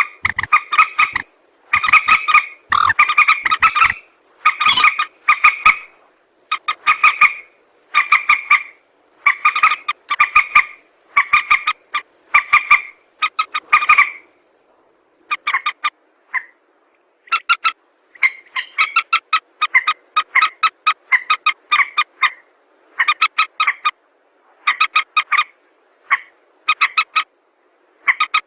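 Recorded lure call of a rail (burung mandar): short, rapidly pulsed calls repeated in bursts about once a second. The calls break off for a couple of seconds about halfway through, then resume in shorter bursts.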